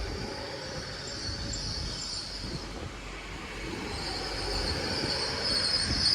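GWR Class 800 Intercity Express train drawing into the platform, its wheels and brakes squealing over a low rumble. The squeal and the rumble grow louder in the last couple of seconds as the train comes closer.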